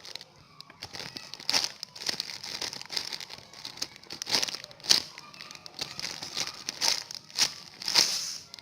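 Crinkly packaging rustling and crackling as it is handled, in irregular bursts a few times a second, the sharpest about five and eight seconds in.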